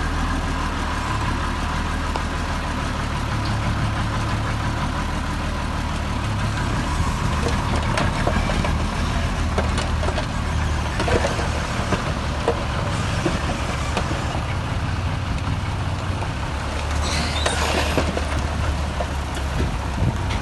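Heavy diesel earthmoving machinery, a bulldozer and dump truck, running steadily, with scattered metallic clanks and knocks. A short hiss comes near the end.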